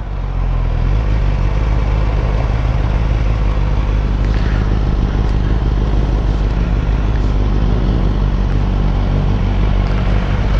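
Motorcycle under way, heard from the rider's helmet: a steady rush of wind over the microphone with the engine's low drone beneath it, growing louder about a second in.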